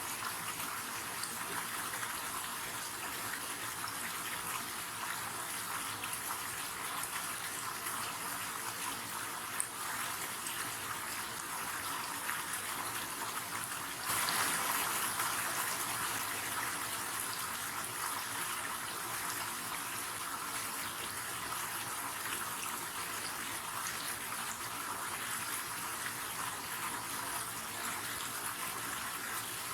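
River water flowing steadily, with an even rushing sound that gets louder about halfway through and then eases back.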